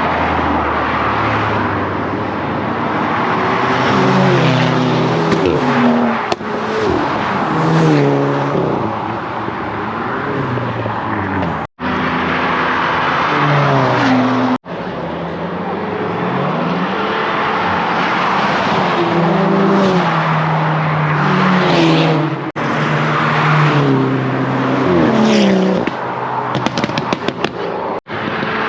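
Car engines revving and accelerating hard, the engine note climbing and dropping again and again over a steady rush of tyre and exhaust noise. There is a quick run of sharp crackles near the end.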